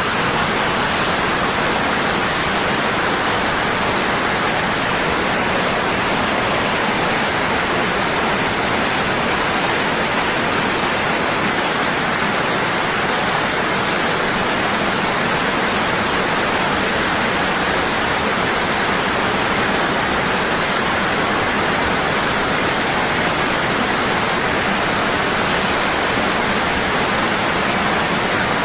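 Waterfall, water falling heavily and steadily in an even, unbroken rush.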